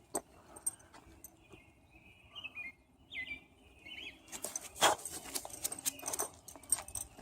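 Birds chirping in short gliding notes, then from about four seconds in a patter of footsteps and scuffs, the loudest knock just before the five-second mark.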